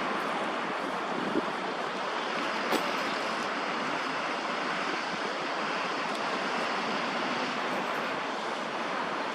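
Steady wash of distant city traffic noise, even and hiss-like with no single vehicle standing out, broken by two brief clicks about a second apart.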